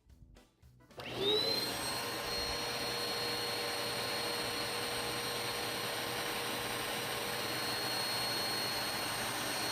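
An electric motor appliance switches on about a second in: its whine rises quickly as it spins up, then it runs steadily with a rushing hiss.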